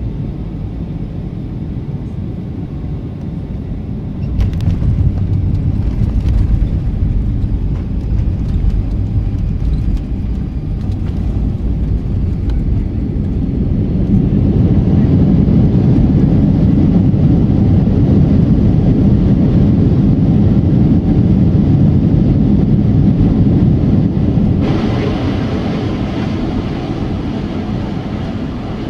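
Cabin noise of a Boeing 757 landing, a heavy rumble throughout. About four seconds in, the rumble jumps, with a few sharp knocks as the wheels meet the runway. From about fourteen seconds it swells to its loudest and holds for some ten seconds, typical of reverse thrust and braking on the landing roll, then eases off.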